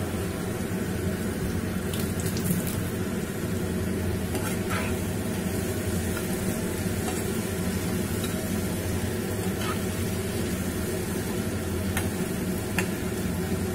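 Chicken and onion pieces sizzling steadily in hot oil in a frying pan. A metal spatula stirring the pan gives a few faint scrapes and taps.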